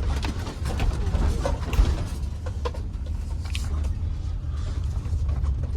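Steady low rumble of a car driving, road and engine noise heard from inside the cabin, with a few faint clicks and rattles.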